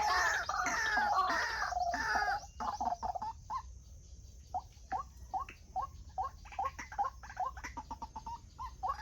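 White-breasted waterhen calling: a loud, harsh run of calls for about the first two and a half seconds, then a quieter series of short repeated notes, about three or four a second.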